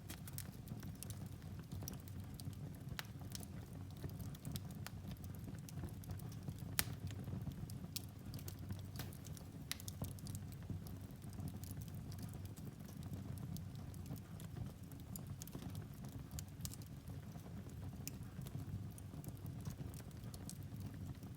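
Firewood burning in a fireplace: a steady low rumble of flame with irregular crackles and pops, one sharper snap about seven seconds in.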